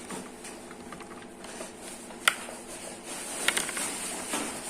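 Washing machine parts being handled: light knocks and clicks of the gearbox and plastic impeller, with one sharp click a little over two seconds in and a few more about a second later.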